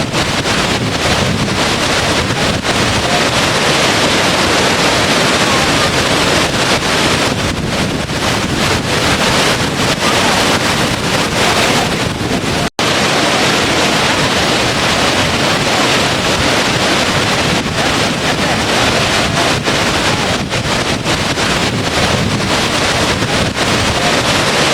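Steady, dense rush of falling water, with a split-second dropout about halfway through.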